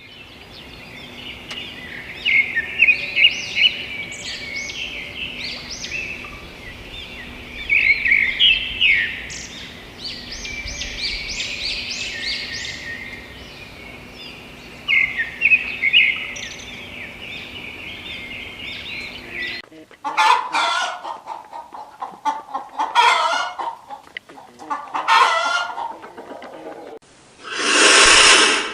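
Chickens calling. First comes a long run of quick, high chirping calls. Then, after a sudden cut, lower clucking calls come in uneven groups, with a loud noisy burst near the end.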